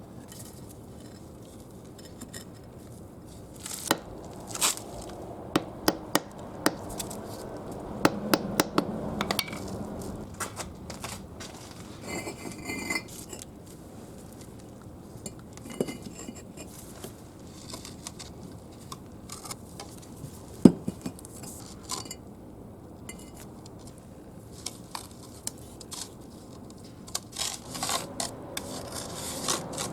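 A hand tool scraping and knocking against bricks and wet mortar as the joints between bricks are smoothed, with sharp clinks and taps scattered through. The loudest single knock comes about two-thirds of the way in.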